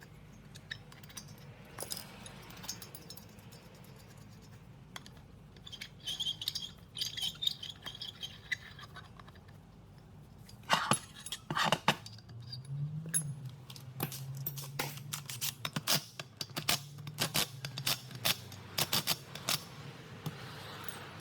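Metal tools and parts clinking and knocking during hands-on compressor repair work, with a spell of ringing clinks, then a couple of louder knocks around the middle and a run of quick clicks near the end, over a low steady hum.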